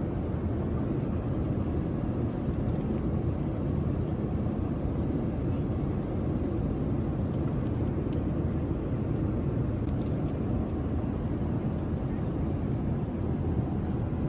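Steady roar of air and engines inside the cabin of a Boeing 787-9 in flight, even and unchanging.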